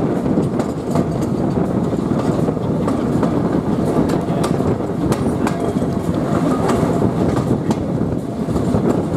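Passenger carriages of a train running along the line, heard from an open carriage window: a steady rumble of wheels on rail with clicks over the rail joints.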